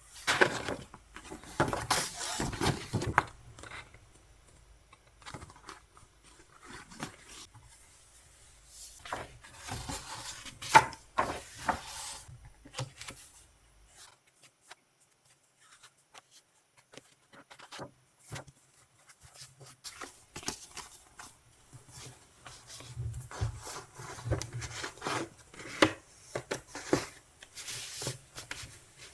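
Music album packaging and its contents being handled: irregular rustling of plastic and paper with small taps and clicks, pausing for a few seconds midway.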